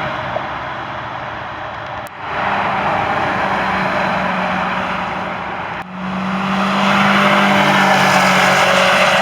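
Sports car driven hard on a test track: steady engine and road noise with a constant low hum, broken by two sudden brief dips about two and six seconds in.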